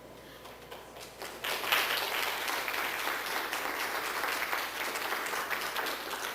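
An audience clapping: scattered claps about a second in, swelling to full applause, then dying away at the end.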